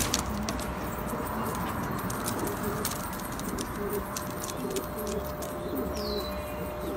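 Domestic Shami pigeons cooing, short low coos repeating again and again, over many light clicks and taps. A brief high falling chirp comes about six seconds in.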